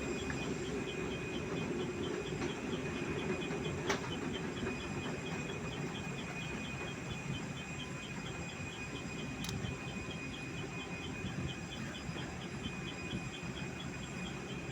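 Outdoor background noise: a steady low rumble with a faint high chirp repeating about four times a second.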